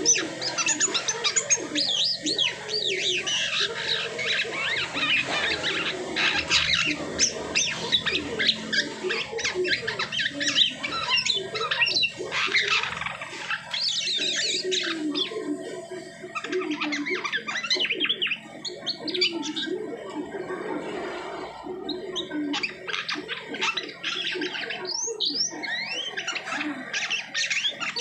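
Jalak sutra (silky starling) singing a long, nonstop run of chattering, squeaky whistles mixed with lower rasping notes, in its post-moult song.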